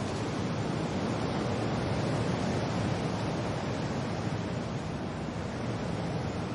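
Steady wind and rain: a dense, even rushing noise, heaviest in the low range, swelling slightly a couple of seconds in.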